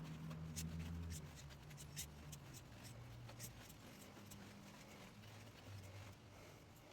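Faint rubbing and light irregular clicks as a rag wipes along a motorcycle chain, the links ticking under the cloth.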